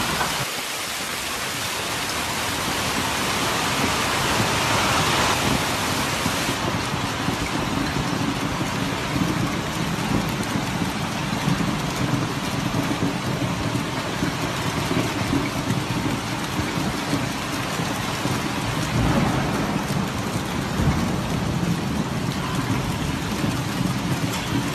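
Heavy downpour in a thunderstorm: a dense, steady hiss of rain pouring down. About six seconds in the hiss changes abruptly and becomes less bright, with a low rumble underneath from then on.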